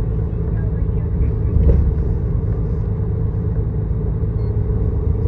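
Miyazaki Kotsu route bus under way, heard from inside: a steady low rumble of engine and road noise, with a single brief bump about a second and a half in.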